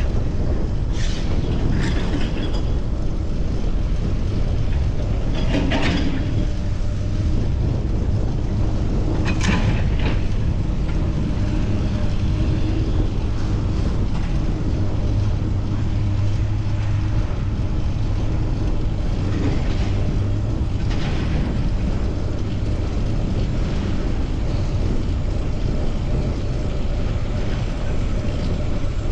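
Steady wind rush and road noise from a fixed-gear bicycle ride through city traffic, with a low vehicle hum strongest in the middle and a few brief sharper sounds about a second, six seconds and nine seconds in.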